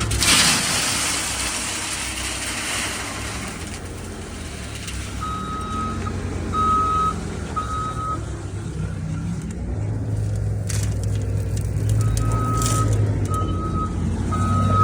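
Pea gravel pouring into a pickup bed with a rushing, rattling noise for the first few seconds, over the steady hum of a heavy engine. Then a reversing alarm beeps, three beeps in the middle and three more near the end, as the machine backs away.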